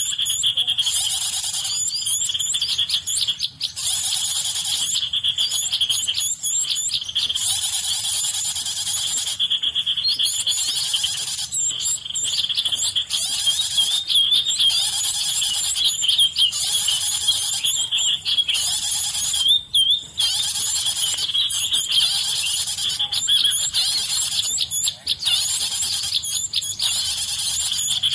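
Dense high-pitched bird chirping in quick runs over a steady shrill insect drone, continuous throughout.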